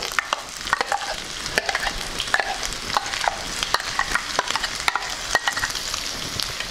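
Diced potatoes sizzling in hot oil in a wok while spinach purée is spooned in from a steel blender jar. Frequent short clicks and scrapes of the spoon against the jar and the pan run over the steady sizzle.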